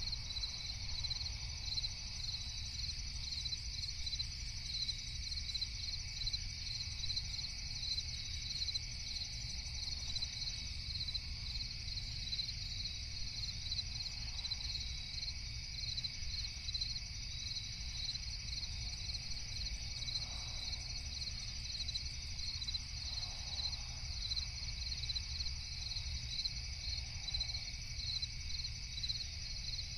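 Crickets chirping in a steady, fast, even pulsing trill, with a second continuous insect drone a little lower in pitch and a low steady rumble underneath.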